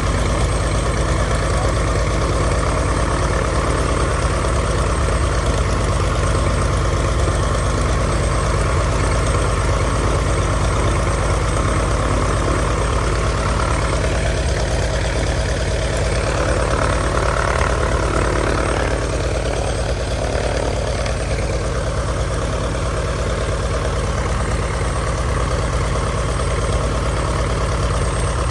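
1948 Cessna 170's air-cooled six-cylinder Continental engine and propeller idling steadily on its first run after the aircraft has sat unused.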